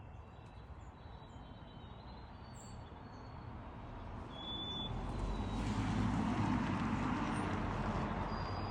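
Wild birds chirping and whistling in short high calls. About halfway through, a broad rumbling hiss swells up and becomes the loudest sound, easing a little near the end.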